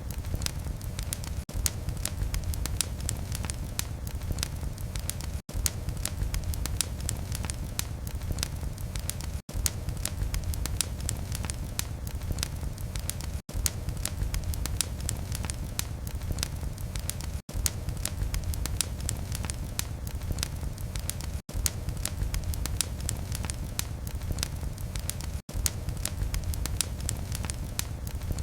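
Wood fire crackling in a fireplace: dense sharp pops and snaps over a low rumble of flame. The sound cuts out for a split second about every four seconds.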